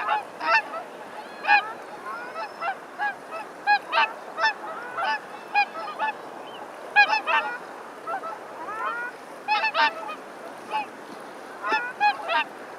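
A flock of waterfowl honking: many short, nasal calls, irregular and overlapping, several to the second.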